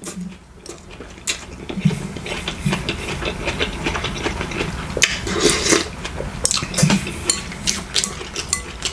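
Cutlery clinking and scraping against dishes while eating, in many irregular sharp clicks.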